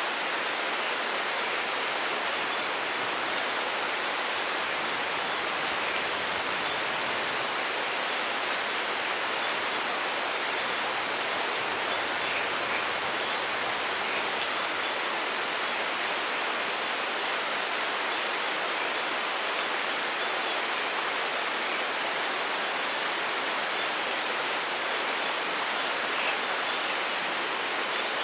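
Steady, unbroken rain, with a few faint droplet ticks.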